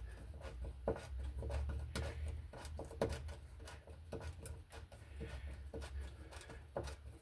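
Irregular light clicks and knocks of tools and hardware being handled, over a low rumble.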